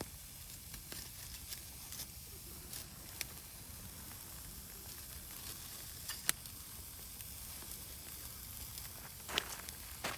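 Wood fire crackling over a steady hiss, with scattered sharp pops; the loudest pop comes about six seconds in.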